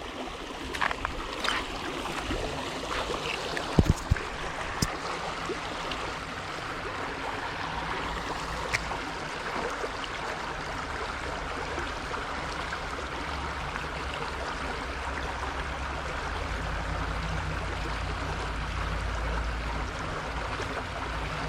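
Steady rush of flowing water, with a few sharp clicks in the first five seconds. Wind rumbles on the microphone and grows stronger near the end.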